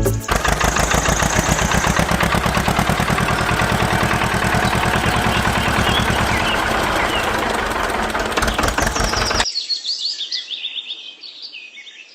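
A small engine running with a rapid, even knocking beat, with birds chirping over it. The engine cuts off suddenly about three-quarters of the way in, leaving only faint bird chirps.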